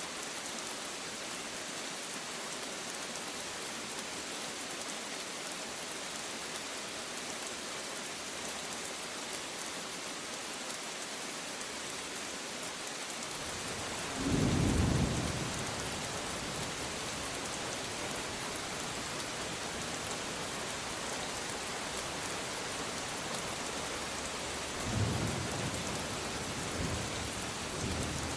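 Steady rain falling, with a clap of thunder about halfway through that rumbles on, then two fainter rolls of thunder near the end.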